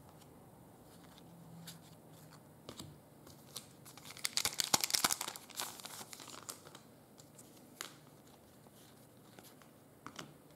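Plastic trading-card pack wrapper being torn open and crinkled, with scattered clicks and rustles of handled cards; the crinkling is densest and loudest about four to five and a half seconds in.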